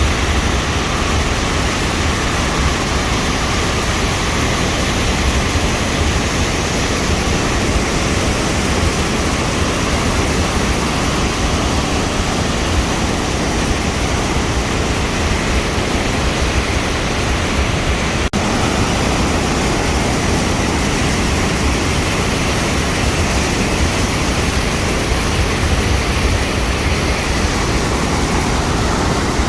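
Steady, loud rush of a flood-swollen waterfall, with a momentary dropout about two-thirds of the way through.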